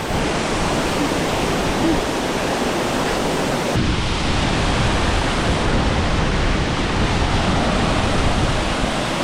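Waterfall rushing loudly and steadily into its pool, a dense continuous roar of falling water. About four seconds in it turns deeper and fuller.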